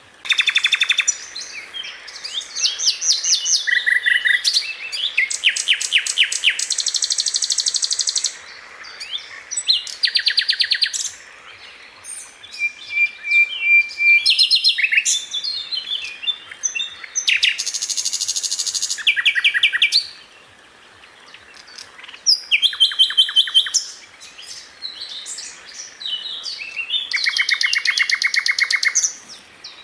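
Sikatan londo flycatcher singing: bursts of rapid, dense trills and chattering phrases, each lasting a second or two, with short pauses between them.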